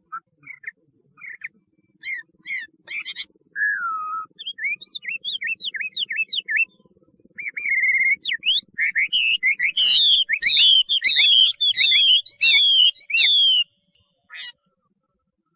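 Chinese hwamei (melodious laughingthrush) singing: a varied run of clear whistled notes and slurs that builds to a loud series of repeated down-slurred phrases, then stops short near the end.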